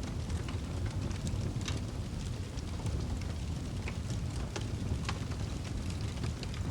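Wood fire burning in a fireplace: a steady low rumble from the flames, with scattered sharp crackles and pops at irregular intervals.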